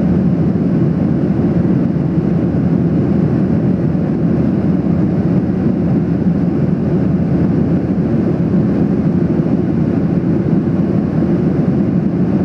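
Steady cabin noise inside a Boeing 737-800 in flight: the low, even rush of engines and airflow heard from a window seat, unchanging throughout.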